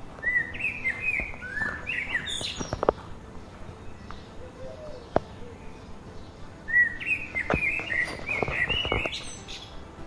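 Bird singing in two bouts of quick, varied whistled phrases, with a few sharp clicks among them.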